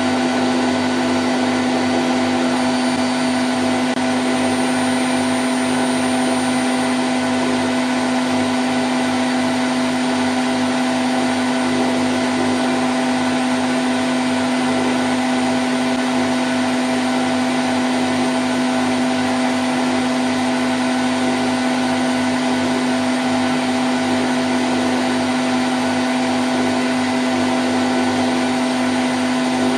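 Candy Grand O' F106 washing machine on its spin cycle at 1000 rpm: a steady hum and whine from the motor and drum over an even rushing noise, with no change in speed.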